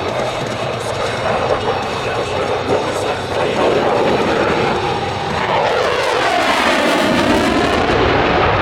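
Jet noise from a Blue Angels F/A-18 Super Hornet flying past low, swelling louder partway through, with a swirling, phasing sweep in the sound from about six seconds in as the jet passes.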